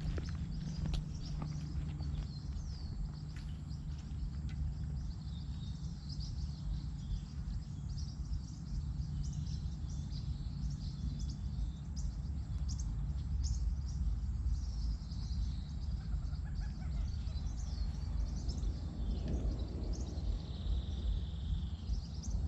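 Wild birds chirping and calling over a steady low rumble, with a few sharp clicks in the first seconds and a longer call near the end.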